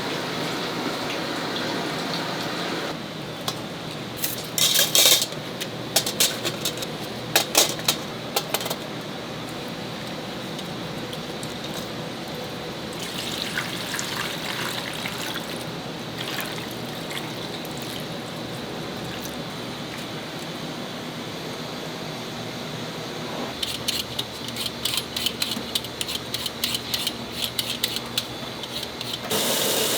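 Kitchen food preparation under a steady wash of running water or cooking noise, with clattering of dishes and utensils now and then, and a run of quick, even knocks near the end.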